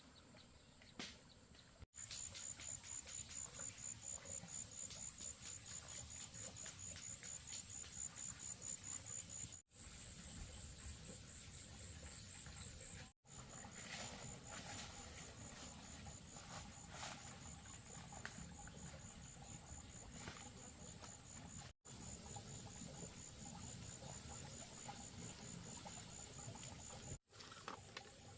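Insects chirping: a continuous high-pitched, rapidly pulsing trill over faint background noise, broken by a few brief dropouts.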